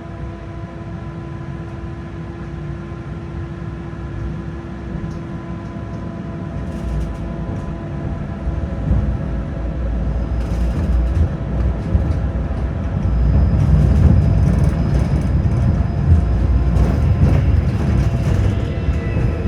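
Tram running between stops, heard from inside the car: a low rumble of wheels and running gear that grows steadily louder, with clacks and rattles from about halfway through.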